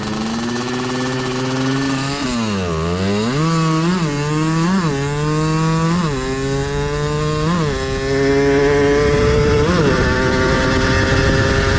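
Big-bore two-stroke Yamaha Blaster engine in a drag minibike launching and accelerating hard through the gears. The revs climb and drop sharply at each upshift, then hold high and steady before easing off near the end.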